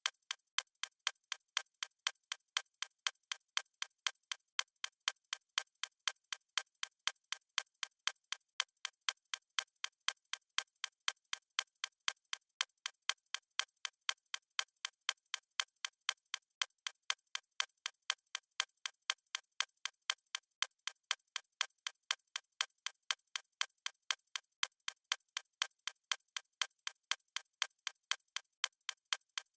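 Stopwatch ticking sound effect: fast, even, sharp clicks at a steady pace.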